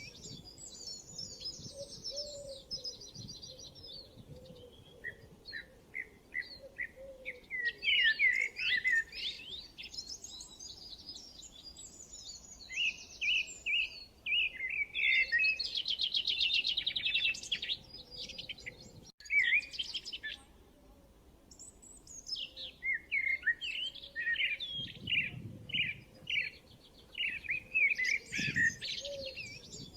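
Songbirds singing and chirping in overlapping phrases of quick trills and runs of repeated high notes, with short pauses between phrases.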